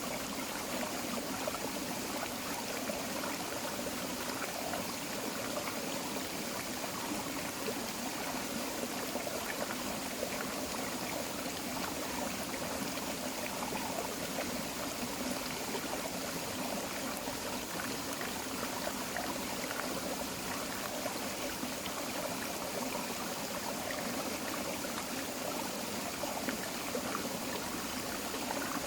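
Tropical forest creek flowing over rocks: a steady babbling and trickling of running water.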